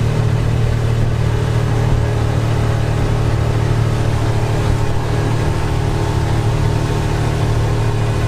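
Speedboat engine running at a steady pace, a constant low drone.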